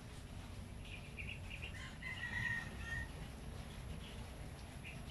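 Faint bird calls: a few short high chirps and one brief whistled note near the middle, over a steady low background rumble.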